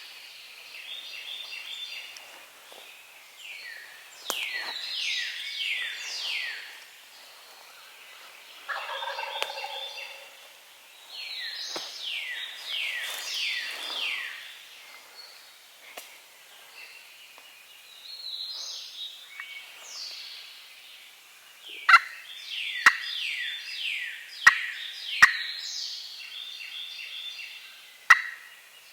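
Wild turkey gobbling again and again from the roost, each gobble a quick rattling run of falling notes. Several sharp snaps come near the end.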